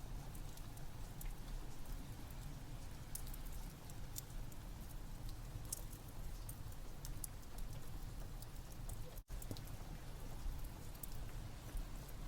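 Steady rain ambience mixed with a wood fire crackling: a continuous hiss and low rumble with scattered sharp pops. The sound cuts out completely for an instant about nine seconds in.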